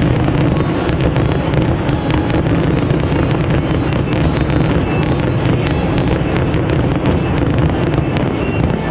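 Fireworks display: a continuous barrage of aerial shell bursts with dense crackling.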